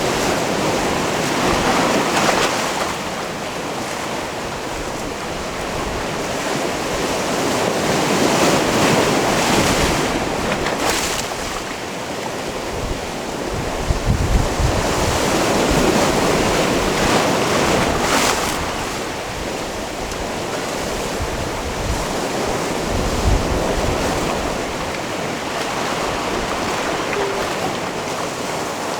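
Sea waves washing in over a rocky cove's stones, a steady rush that swells and falls back every few seconds, with a few sharper splashes, about 11, 14 and 18 seconds in. Wind buffets the microphone.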